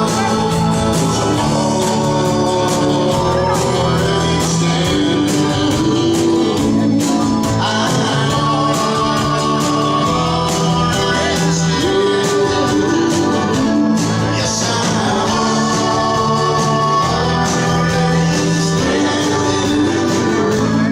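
A live band playing with singing: sustained sung lines over guitar and drums, loud and steady throughout.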